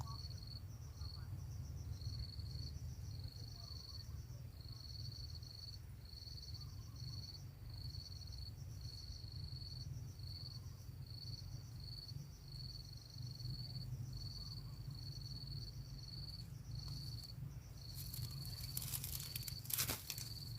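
Insect chirping in short high pulses repeating about every two-thirds of a second, over a low steady rumble. Near the end there is rustling and one sharp knock.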